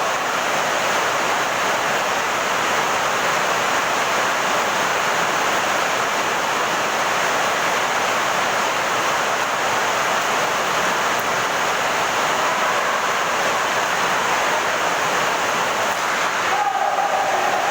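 Heavy rain falling: a steady, even hiss that holds unchanged throughout.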